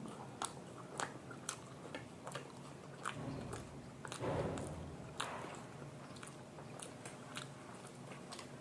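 Close-miked eating sounds of chow mein and momos being chewed: wet mouth clicks and smacks scattered through, with one longer, louder eating sound about four seconds in.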